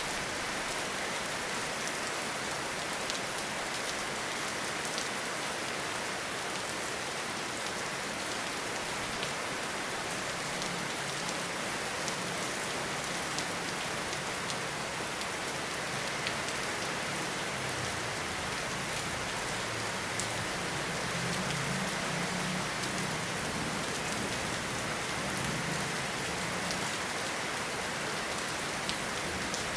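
Steady rain falling in a forest, a constant hiss with scattered individual drop ticks. A faint low rumble rises under it from about a third of the way in until near the end.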